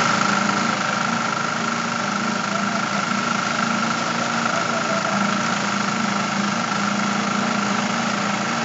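Engine-driven machinery used in pouring a concrete slab, running steadily with a constant mid-pitched whine over a low hum.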